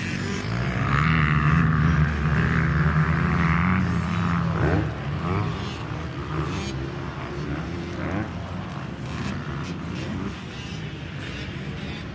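Motocross dirt bikes running on the track: one bike's engine is loud for the first few seconds, then drops away, leaving quieter bikes revving up and down.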